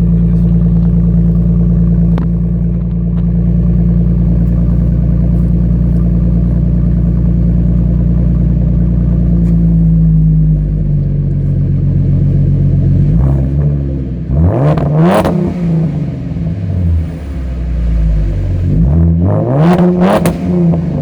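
2015 Mustang's 3.7-litre V6 idling steadily through a Flowmaster Outlaw Series axle-back exhaust, then revved twice in the second half, each rev rising quickly in pitch and falling back to idle.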